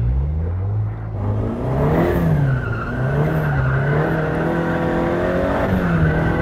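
KTM X-Bow's engine revving hard during a drift run, heard from inside the car: the note dips, climbs steeply about a second in, then holds high with repeated small surges.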